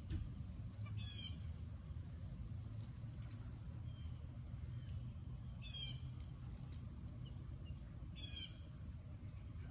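A bird calling three times, each call a short rapid series of high notes, over a steady low background rumble.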